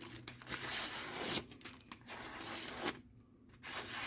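A freshly sharpened knife edge slicing through paper in three long strokes, a paper-cutting test of the edge's sharpness.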